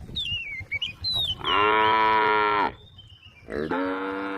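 A cow mooing: one long, loud call about one and a half seconds in, and a second starting near the end.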